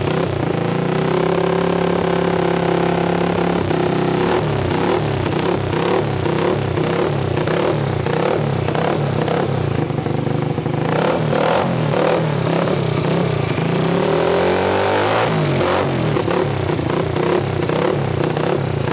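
Dafra Kansas 150cc single-cylinder motorcycle engine running through an aftermarket Roncar exhaust, its pitch rising and falling as the throttle is opened and closed, with a clear rev about three quarters of the way through.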